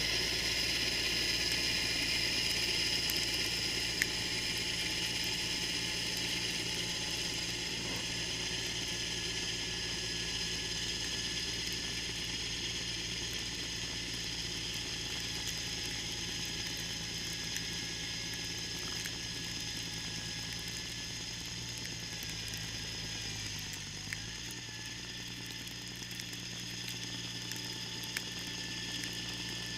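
John Deere 318 garden tractor's engine running steadily, likely driving the Model 49 snowblower, with a brief dip in pitch about 23 seconds in.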